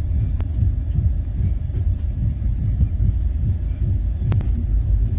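Steady low running rumble of a moving passenger train, the Satyagrah Express, heard from inside the coach. Two faint clicks come through, one about half a second in and one near the end.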